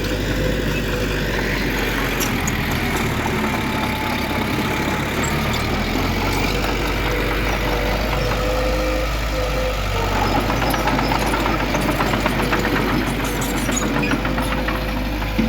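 Heavy earthmoving machinery, a bulldozer or dump truck, with its diesel engine running steadily and a wavering whine over it; a fast metallic rattle joins in during the second half.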